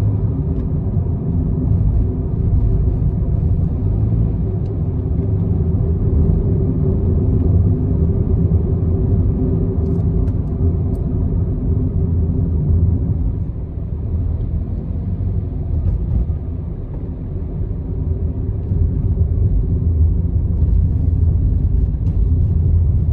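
Steady low rumble of a car driving on the road: engine and tyre noise, easing off slightly twice near the middle.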